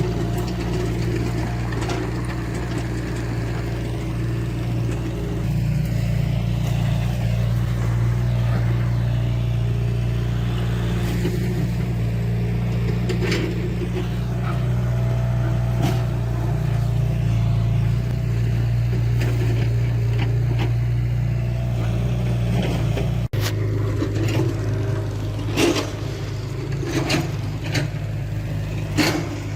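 Heavy diesel earthmoving machinery running steadily under work, a low, constant engine drone with occasional sharp metallic clanks and knocks, several of them in the last few seconds. The sound shifts abruptly a little over three-quarters of the way through.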